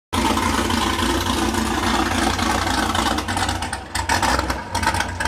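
Chevrolet SS sedan's V8 idling with a steady deep exhaust rumble, dipping briefly about four seconds in.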